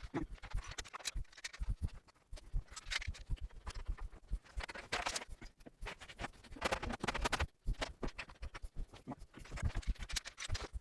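Irregular light knocks and taps with a few short scraping strokes, from hand work on the wooden drawer-front parts.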